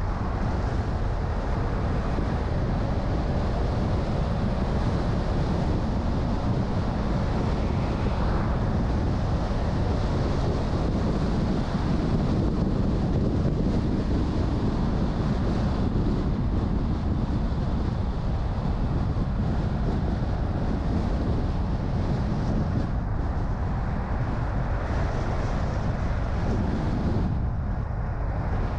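A car driving: steady low rumble of engine and tyres on the road, with wind noise over it.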